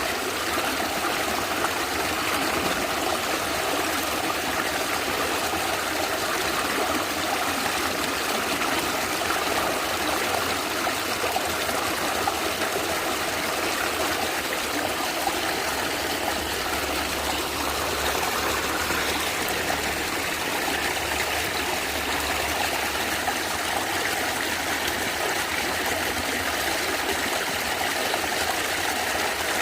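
Stream water running and gurgling over rocks, a steady, even rush.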